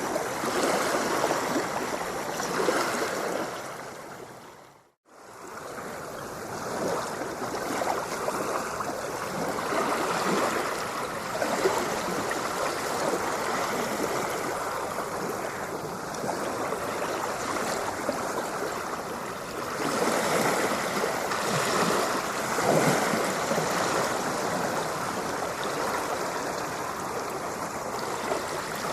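Ocean surf: a steady wash of water noise with gentle swells. About five seconds in it fades briefly to silence and comes straight back in.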